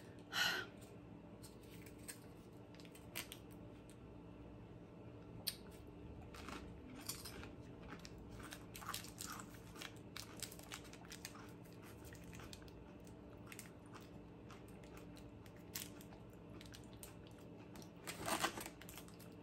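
Faint crunching of a potato chip being bitten and chewed, with scattered small clicks and crinkles. Near the end a plastic mustard packet is torn open with a brief louder rustle.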